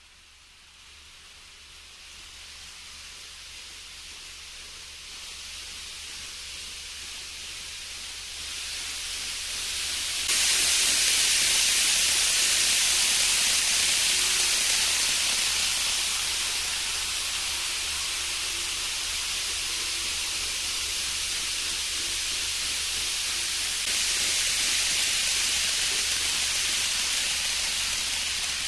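N-gauge model Shinkansen train running along the track, a steady hiss that grows louder as it approaches, with a sudden rise about ten seconds in, then holds.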